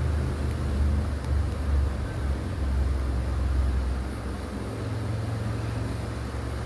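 Low, uneven wind rumble on the microphone over a steady outdoor hiss.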